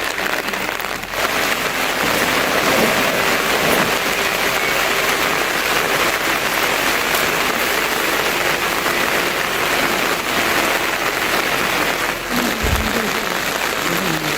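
Heavy rain falling steadily, an even hiss with no letting up, with one brief dull low bump near the end.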